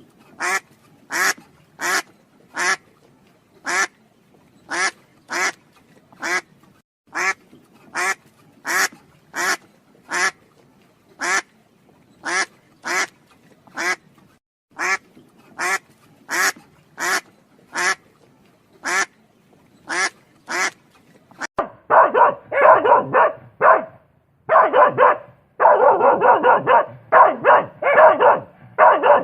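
A duck quacking over and over, short single quacks about one or two a second. About three-quarters of the way through, a dog takes over, barking in quick clusters.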